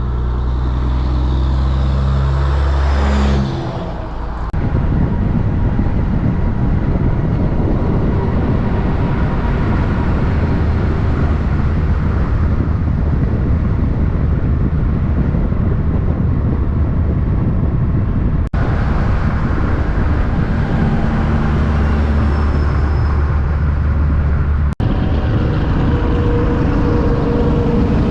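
Road traffic with heavy trucks going by: a strong low engine drone for the first few seconds, then steady traffic noise, with the low drone returning for a few seconds past the middle.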